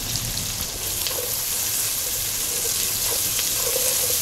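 Chopped onion frying in hot ghee and oil in a pot, a steady sizzle, with a wooden spoon stirring it and a few faint crackles.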